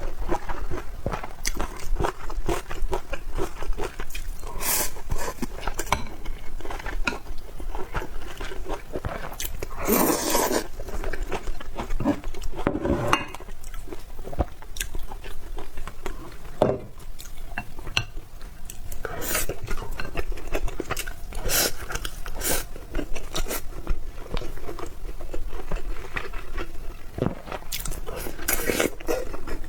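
Close-miked eating sounds: chewing and crunchy bites of chicken, noodles and rice, with utensils clicking and scraping against a bowl.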